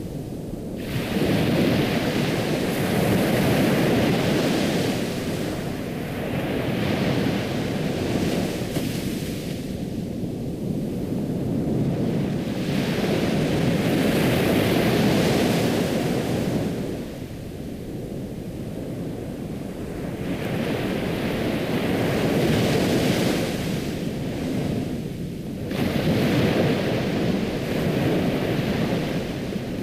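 Ocean waves washing on a shore, the surf swelling and falling back every few seconds.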